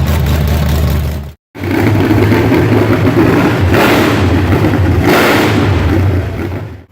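355 small-block Chevy V8 on a two-barrel carburetor running, revved up briefly twice, about four and five seconds in. The sound breaks off for an instant about a second and a half in.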